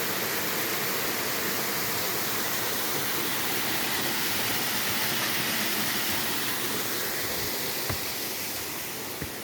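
Water rushing steadily over a stream's small cascades, easing a little near the end. Two soft low thumps come near the end.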